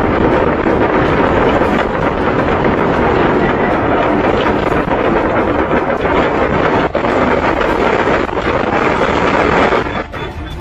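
A loud, continuous rumbling roar of noise with no clear pitch that holds steady and drops away near the end.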